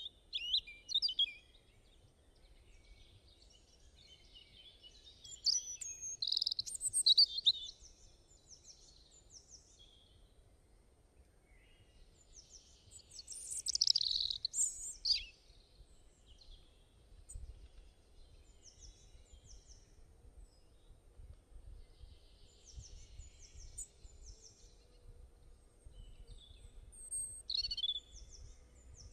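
Wild birds singing and chirping, with louder bursts of song several times over a constant scatter of short, high chirps. A faint low rumble runs underneath.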